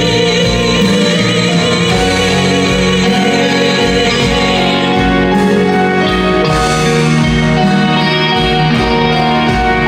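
A woman singing a slow ballad with a wide vibrato over instrumental accompaniment. The voice is plainest in the first half, after which held accompaniment chords carry on.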